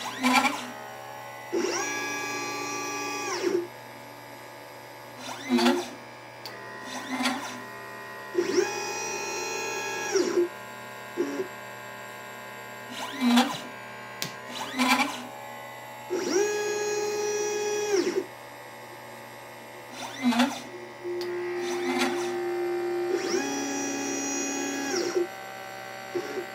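LitePlacer pick-and-place machine's stepper motors whining as the head travels while placing capacitors and resistors. There are four longer moves of about two seconds each, roughly every seven seconds, each with a pitch that ramps up at the start and down at the end. Short sharp clicks and brief moves come between them, over a steady machine hum.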